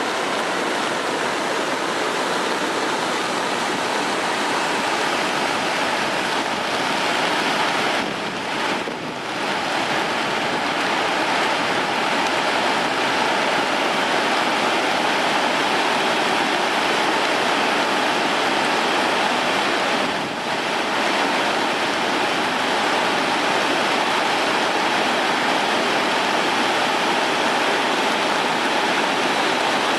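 Sogi Falls on the Sendai River running in flood after days of rain, a loud, steady rush of falling water that dips briefly twice.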